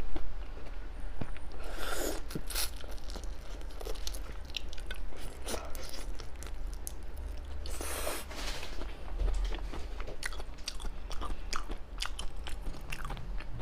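Close-up chewing and crunching of seafood, with many sharp crunches and two longer, louder bursts about two seconds in and about eight seconds in.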